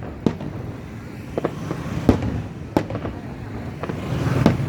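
Aerial fireworks shells bursting, about five separate sharp bangs spread over a few seconds, over a continuous background rumble of the display.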